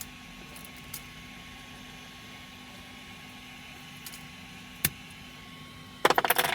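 Steady hum of a 3D printer's fans at rest after a finished print, with a few single clicks. Near the end a quick rattle of sharp clicks, typical of the printed part being handled or freed from the build plate.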